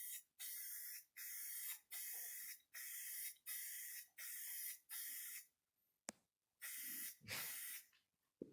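Aerosol spray-paint can spraying in short, even bursts of about half a second, roughly one every 0.7 s. About six seconds in there is a pause and a single click, then two more bursts.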